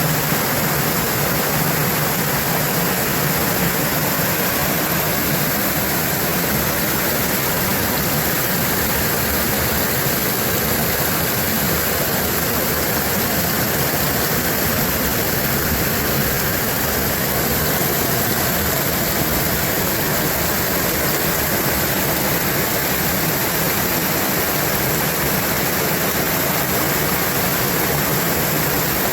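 Steady rush of a brook pouring over a small waterfall, an even unbroken sound of falling water.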